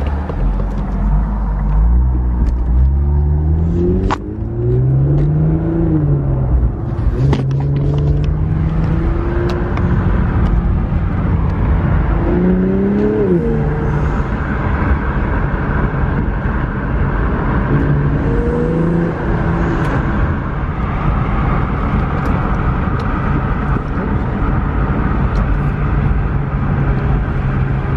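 Twin-turbo Infiniti engine heard from inside the cabin, accelerating through the gears: its pitch rises and drops back several times, with a few short sharp sounds about 4 and 7 seconds in, then it settles into a steady cruise with road noise.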